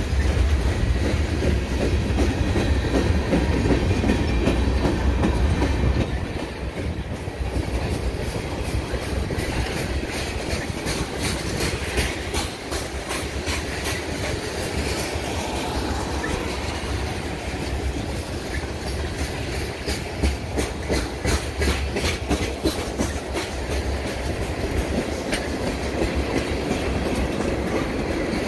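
Freight train of covered hopper cars and tank cars rolling past at close range, its steel wheels clicking over the rail joints in quick runs over a steady rumble.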